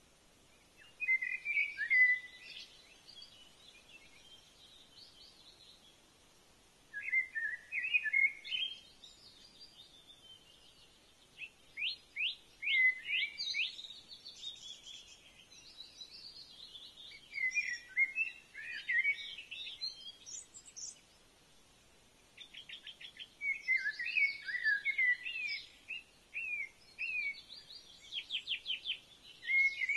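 Songbird singing in short, varied phrases of whistled notes and quick trills, about five phrases a few seconds apart.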